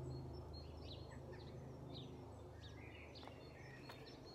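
Songbirds chirping and calling intermittently over a low steady background hum, with a longer warbling phrase about three seconds in.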